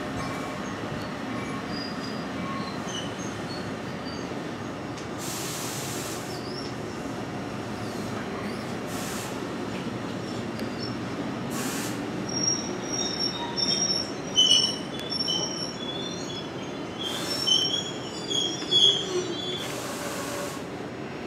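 NJ Transit multilevel commuter coaches rolling past with a steady rumble of steel wheels on rail. In the second half, short high-pitched wheel squeals come and go and are the loudest sounds.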